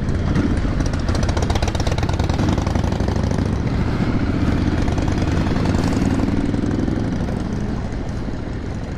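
Motorcycle engine running with a fast, even exhaust pulse. It swells in about the first second, holds steady, then fades near the end.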